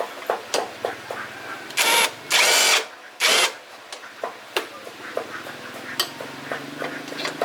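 Handheld power drill spinning in three short bursts, with sharp clicks and knocks of tools and metal parts being handled around them.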